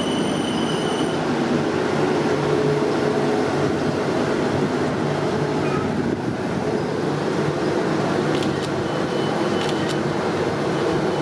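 Class 455 electric multiple-unit train running at the platform, a loud steady rumble of wheels on rail with a steady low hum.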